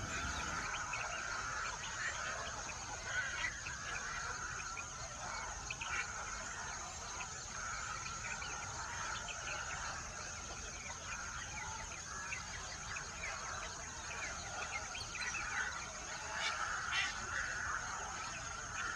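A dense chorus of many birds calling and chirping over one another without a break, with a thin steady high tone running underneath.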